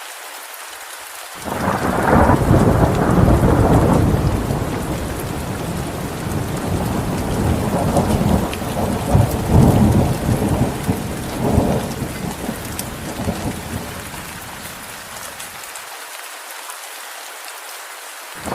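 Steady rain hiss with a long roll of thunder: the rumble breaks in suddenly about a second and a half in, rolls in waves, and fades out a couple of seconds before the end.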